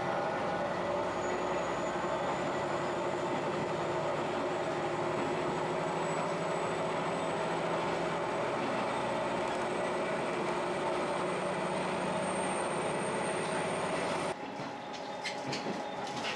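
Diesel railcar running, heard from inside the car: a steady drone of engine and wheels with a faint high whine that rises slowly. About fourteen seconds in the noise drops suddenly to quieter rolling with clicks of the wheels over the rail joints.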